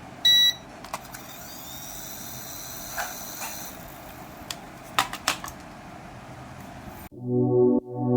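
A short electronic beep just after the start, then a few light clicks and knocks over a steady hiss. About seven seconds in, synthesizer and keyboard music starts abruptly.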